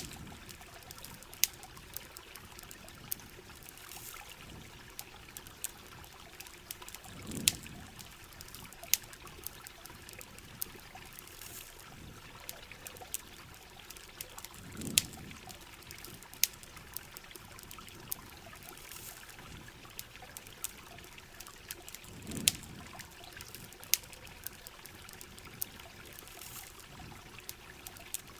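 Steady trickle and patter of rain and running water, with sharp campfire crackles scattered throughout. A low swell of water comes back about every seven and a half seconds.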